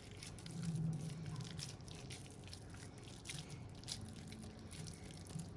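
Soft, irregular wet squishing and sticky clicks of raw ground-beef mixture being pressed and patted by hand around a stuffed jalapeño pepper.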